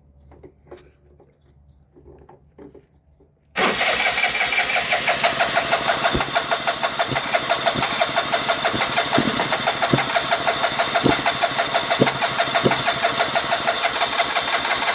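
2009 Vespa LX150 scooter's electric starter cranking its single-cylinder engine, which does not catch. The cranking comes in suddenly a few seconds in and keeps on with a fast, even pulse. The owner takes the no-start for a dirty spark plug.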